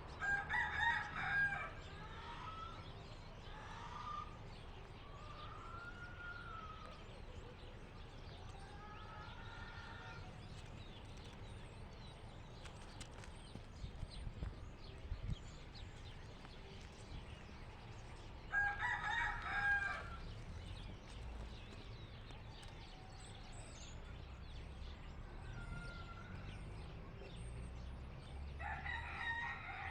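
A rooster crowing three times: about a second in, about two-thirds of the way through, and again at the end. Each crow lasts about a second and a half. Fainter bird calls come in between.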